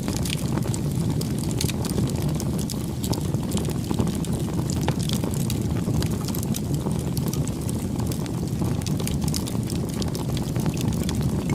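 A wood bonfire burning: a steady low rumble of flames, with many small sharp crackles and pops throughout.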